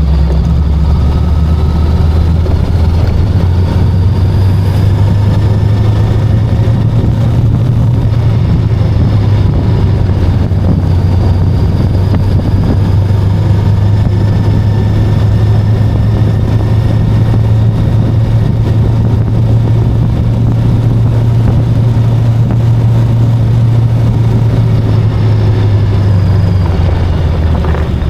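VOGE 525DSX motorcycle's parallel-twin engine running steadily while under way, a low steady engine note with an even rush of noise over it. The engine note drops slightly near the end.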